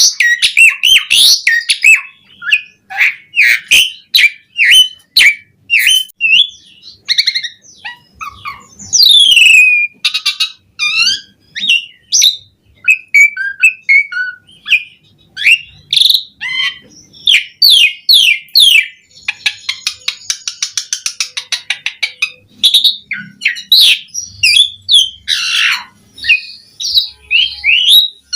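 Asian pied starling singing a long, varied song without pause. It mixes sharp whistles, falling glides, chirps, rapid clicking rattles and a harsh rasping phrase, with mimicked fill-in phrases from other birds (isian) woven into the song.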